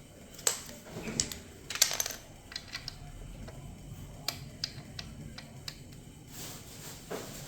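Plastic Lego bricks clicking and clattering as they are handled: irregular sharp clicks, with a busier cluster about two seconds in.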